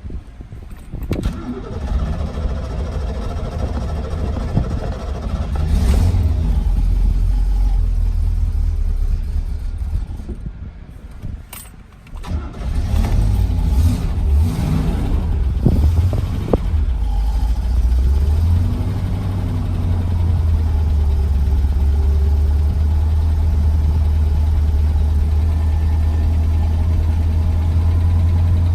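Cold start of a 1964 Chevrolet Corvette's 327 V8: it catches about a second in and runs unevenly, sags almost to a stall about ten seconds in, picks up again with a few revs, then settles into a steady idle.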